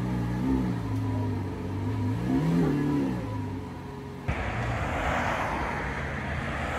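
Lamborghini Aventador's V12 idling, with two short throttle blips about half a second and two and a half seconds in. After a cut about four seconds in, a supercar is heard accelerating hard away from a roundabout.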